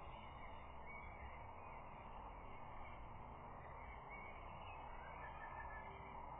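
Steady outdoor hiss from a nest-camera microphone, with faint distant bird calls, a few clearer ones about five seconds in.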